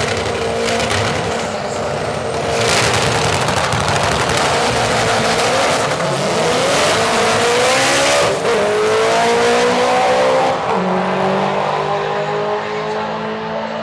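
Drag racing cars accelerating hard down the strip: loud engine noise with the pitch climbing, dropping once at a gear change about eight seconds in, then climbing again before easing off near the end.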